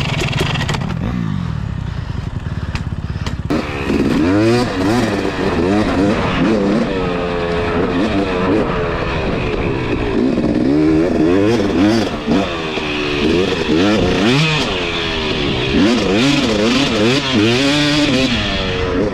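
Two-stroke dirt bike engine running low and steady for the first few seconds, then being ridden hard, its pitch climbing and dropping again and again as the throttle opens and closes.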